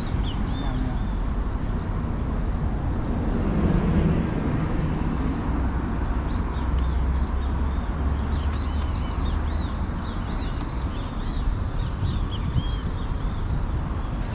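Small birds chirping in quick runs of short, high, arched calls, over a steady low rumble.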